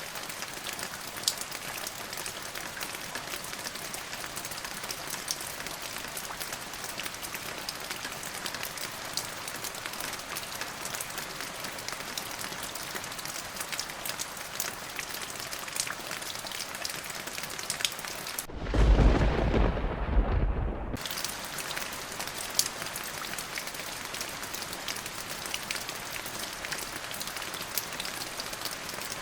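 Steady rain falling, with scattered drops ticking. About two-thirds of the way through, a clap of thunder rumbles low and loud for about two and a half seconds before the rain returns.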